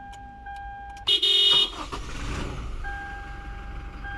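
Car engine started with a push-start button: a loud, short cranking burst about a second in as it catches, then the engine running. A steady electronic warning tone sounds with short breaks before the start and again after it.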